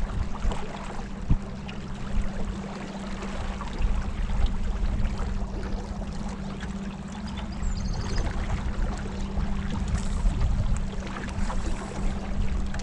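Water lapping and splashing around a kayak out on the river, with a steady low hum underneath.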